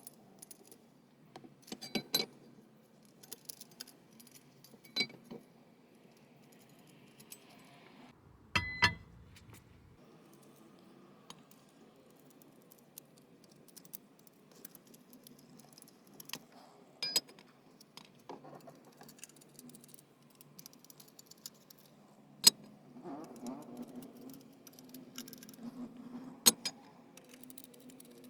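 Scattered light metallic clicks and clinks of a steel straightedge and feeler gauge being set down and moved across a cylinder head's deck while it is checked for flatness, with one heavier knock about nine seconds in.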